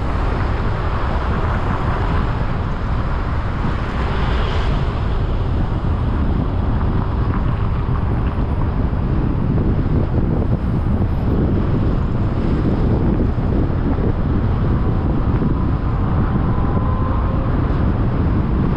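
Wind buffeting the microphone over steady road traffic noise, with faint gliding tones from a passing vehicle near the end.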